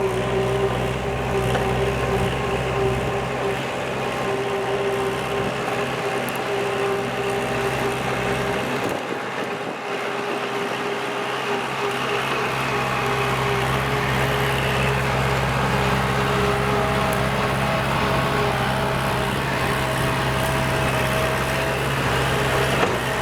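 Kubota L4708SP tractor's diesel engine running steadily under load while ploughing.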